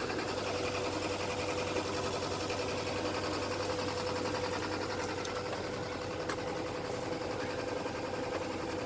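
A small motor running steadily, with a fast even chatter and a constant hum.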